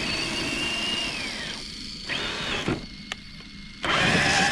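Electric motor of a radio-controlled truck whining as the throttle is worked: a high whine that holds, falls away, briefly rises again and cuts off, then comes back louder near the end.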